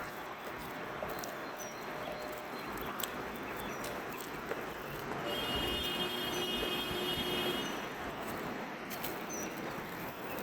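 Muscovy ducks pecking seeds off the ground, with scattered small clicks over a steady outdoor hum. There are faint short bird chirps, and a steady whine of several tones lasting about two and a half seconds midway.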